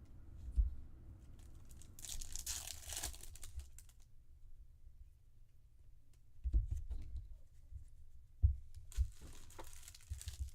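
Trading-card packaging being torn open and crinkled, in two spells of rustling about two seconds in and again near the end, with a few low thumps between.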